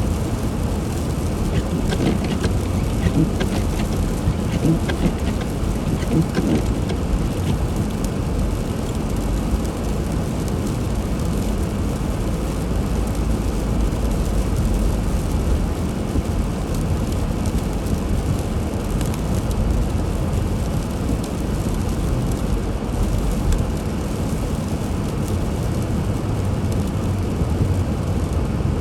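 Steady low rumble of a car driving on snowy roads: engine, tyre and road noise, with scattered light ticks in the first several seconds.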